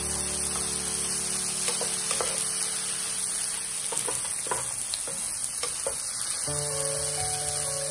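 Diced spam, kimchi and green onion sizzling steadily in a frying pan while a wooden spatula stirs them, with scattered short scrapes and clacks of the spatula against the pan.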